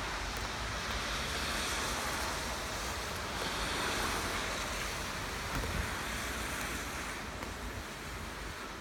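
Steady rain falling, an even hiss that swells and eases slightly.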